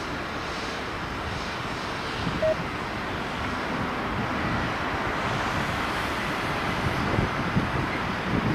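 Steady jet aircraft engine noise mixed with wind on the microphone, with one short beep about two and a half seconds in.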